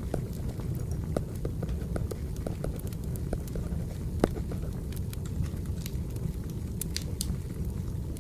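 Wood fire burning: a steady low rumble with irregular crackles and snaps, and one sharper pop a little past halfway.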